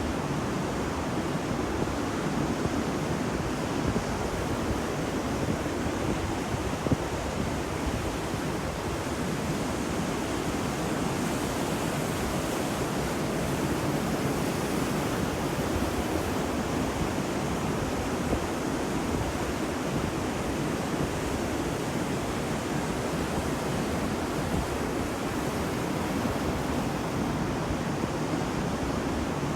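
Ocean surf on a beach: a steady wash of breaking waves with no distinct single crashes, slightly brighter and hissier for a few seconds mid-way.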